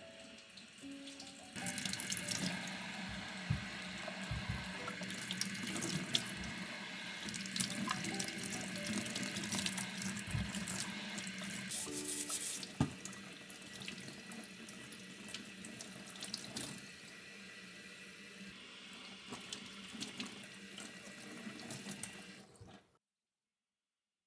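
Tap water running into a sink, with scattered light knocks and clinks of things being handled under the stream; it starts about a second and a half in and cuts off abruptly near the end.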